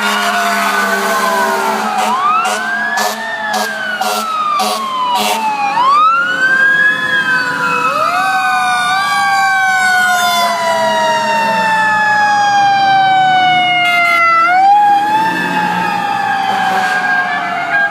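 Several fire truck sirens wailing together, their pitches overlapping as they wind up and slowly wind back down. A quick run of short sharp blasts sounds a few seconds in.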